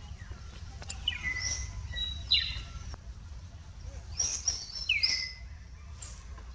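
Birds chirping: several short, high calls that slide down in pitch, bunched about a second in and again around four to five seconds in, over a steady low rumble.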